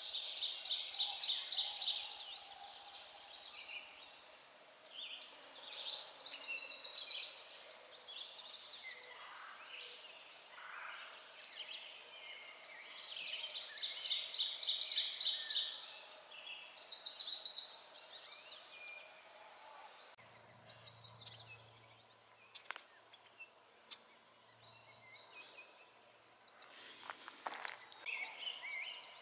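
Several songbirds singing, with fast trilled songs and shorter phrases overlapping every few seconds. The singing thins out about two-thirds of the way through, leaving a few scattered calls.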